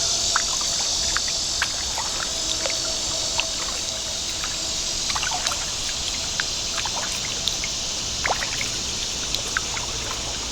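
Water dripping and trickling from kayak paddle strokes, many small irregular drips and splashes, over a steady high-pitched insect chorus.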